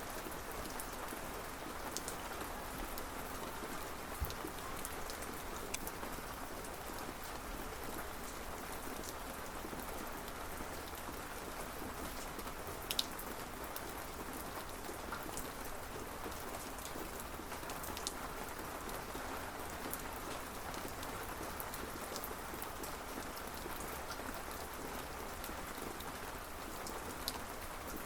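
Steady rain falling, an even hiss with a few sharper drop ticks at scattered moments.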